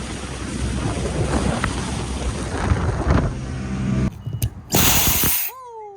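Wind buffeting the microphone over the low rumble of a boat under way. It cuts off about four seconds in, followed by a short loud rush of noise and then a falling whistle-like tone near the end.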